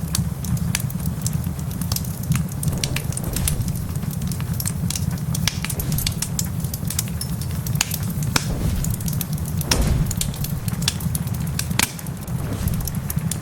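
Wood fire crackling in a fireplace: irregular sharp pops and snaps throughout, a few louder ones in the second half, over a steady low rumble.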